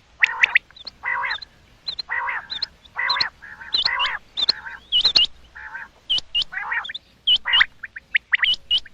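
Common quail calling over and over in quick, irregular succession: short, sharp, high whistled notes that hook in pitch, mixed with lower, raspy, nasal notes. These are the female calls played to lure quail.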